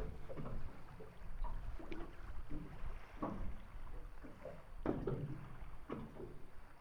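Water slapping irregularly against the hull of a small fishing boat, with a low rumble underneath.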